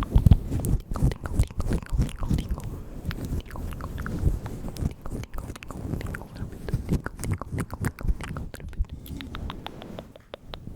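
Close-miked ASMR mouth sounds: a dense, irregular run of quick clicks, pops and smacks of the lips and tongue, easing off near the end.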